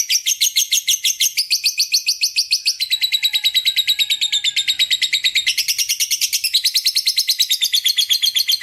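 Lovebird's long ngekek: an unbroken run of shrill, rapid chirps at about nine notes a second, shifting pitch several times along the way.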